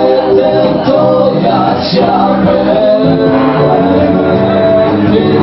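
A live rock band playing a song with a singer's vocals over it.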